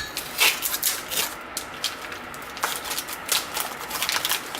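Irregular clicks, taps and rustling scrapes from a cardboard Pringles can being handled and worked to get a block of shaving soap out of it.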